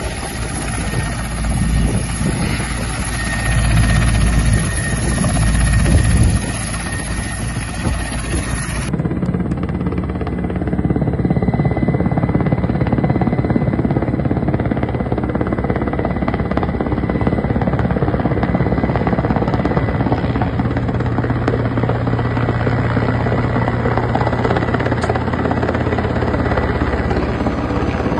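Helicopter running, a steady loud engine and rotor noise; the sound changes abruptly about nine seconds in, as if one recording gives way to another.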